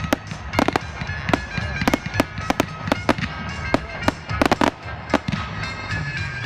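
Fireworks going off in a fast, irregular string of sharp bangs and crackles, with music playing along.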